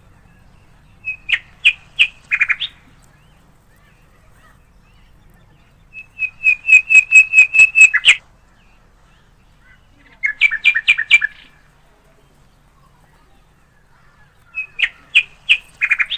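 A bird calling in four bouts of sharp, high chirps. Each bout is a quick run of repeated notes, the longest about ten in two seconds, with short pauses between the bouts.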